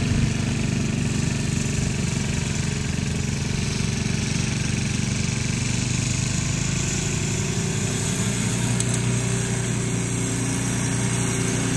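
Engine of a snow-clearing machine running steadily, its note shifting slightly about eight seconds in.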